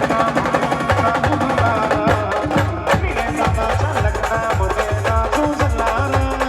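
Live band music: a melody played over a steady, regular drum beat with sharp percussion strikes.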